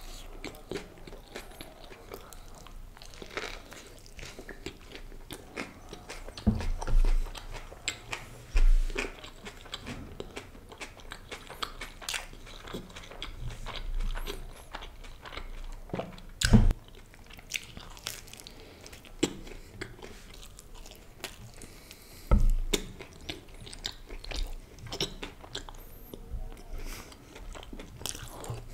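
Close-miked biting and chewing of a Subway tortilla wrap filled with lettuce and vegetables, with crunchy bites and many small clicks. A few louder low thumps stand out, the loudest about two thirds of the way through.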